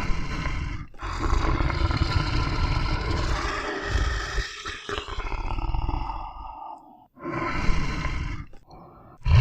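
A series of animal calls: a short one, one long call lasting about six seconds that trails off, then two short ones.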